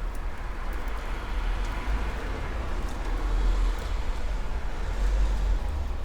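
A road vehicle driving past, its noise swelling and then fading, over a steady low rumble.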